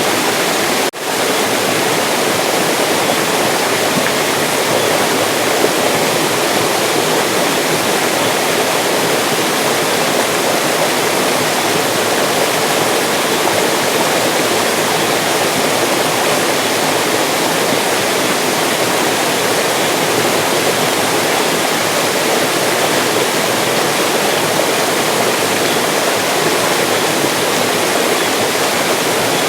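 Mountain stream water rushing steadily, with a brief dip in loudness about a second in.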